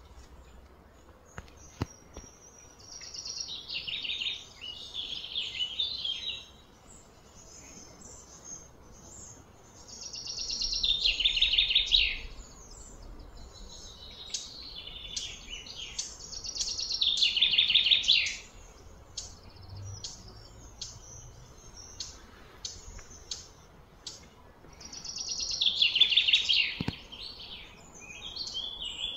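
A bird singing: four long phrases of fast, trilled notes that fall in pitch, several seconds apart, with short chirps in between.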